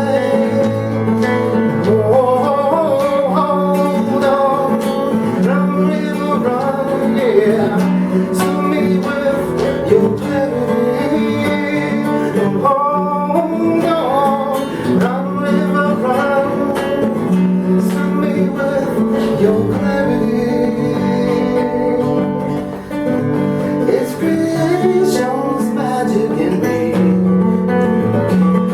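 Contreras studio M-1 acoustic guitar playing an instrumental passage of a song: a melody moving over changing bass notes.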